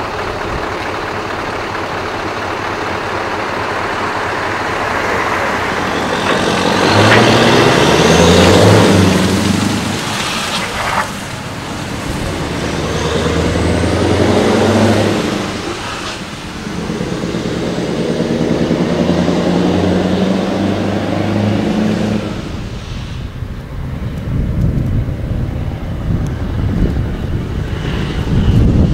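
Scania V8 trucks with upright exhaust stacks roaring past one after another: three pass-bys, each engine note swelling as the truck approaches and fading as it goes. After the last one, a low rumble like wind on the microphone.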